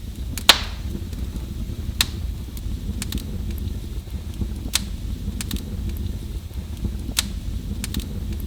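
Wood fire crackling in a fireplace: a steady low rumble of flame under sharp pops and snaps, the loudest about half a second in and a few more spread through.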